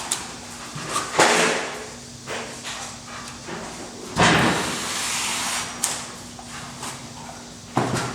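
Insulation work noises: three short, noisy bursts of scraping or hissing about three seconds apart, over a faint steady hum.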